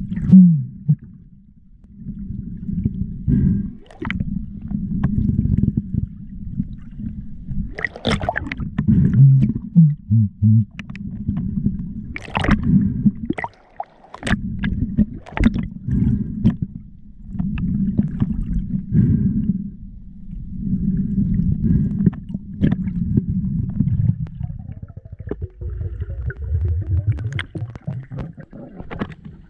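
Muffled underwater audio from a camera in a waterproof housing: repeated low rumbling surges of water, each a second or more long with short gaps between them, dotted with sharp clicks and knocks.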